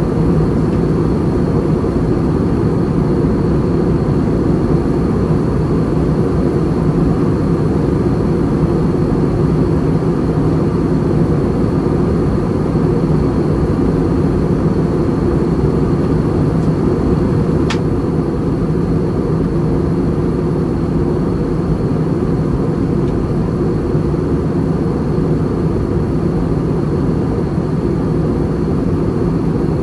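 Steady roar inside the cabin of an Airbus A320 in flight, from its engines and airflow, with a faint high whine over it. A single small click sounds about 18 seconds in.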